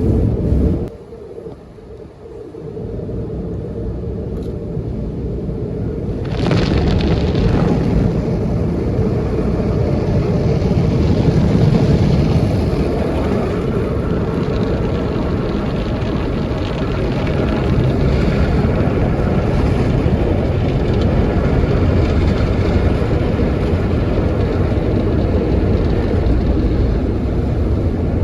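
Automatic car wash machinery working over the car, heard from inside the cabin: a loud, steady rush of noise. It drops away about a second in, builds back, and jumps up suddenly between six and seven seconds in.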